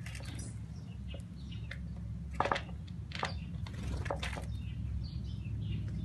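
Birds at a plastic bowl of dry dog food: a scatter of short clicks, rustles and flutters as they hop, flap and peck, the sharpest about two and a half seconds in, over a steady low rumble.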